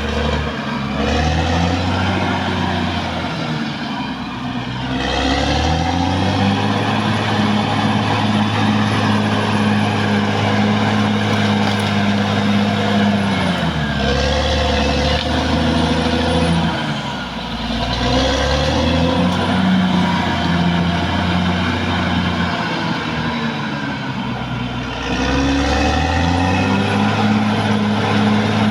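Caterpillar D6R XL bulldozer's diesel engine running, revving up about five seconds in, dropping back around fourteen seconds, and rising and easing again several times as the machine works.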